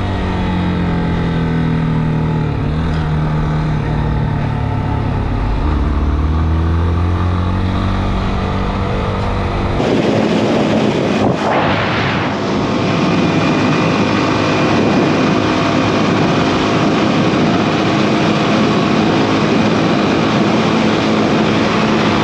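Yamaha XTZ 250 single-cylinder motorcycle engine running on the road, its pitch rising and falling with the throttle. About halfway through the sound changes abruptly to mostly rushing wind noise over a steadier engine hum, with a brief louder rush soon after.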